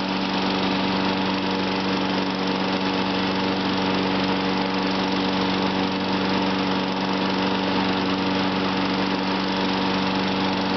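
John Deere riding lawn mower's engine running at a steady speed, its pitch and level unchanging.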